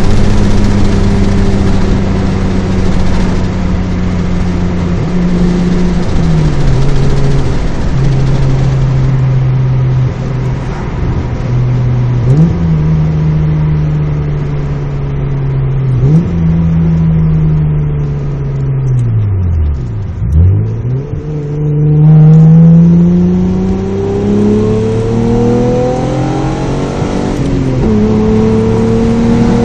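Mazda MX-3 GS's 1.8-litre V6 running through a 2¼-inch exhaust with a test pipe and a Magnaflow Street Series muffler, heard from inside the cabin while driving. The engine note holds steady with a drop in pitch at a gear change, then falls slowly nearly to idle as the car slows, and then climbs steadily under acceleration, dropping once at an upshift near the end before rising again.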